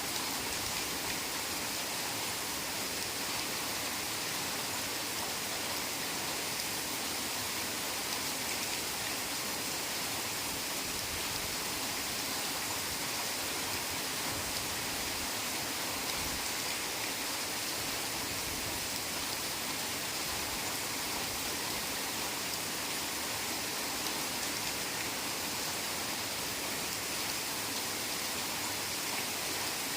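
Heavy rain falling steadily, an even hiss of drops with no breaks or changes.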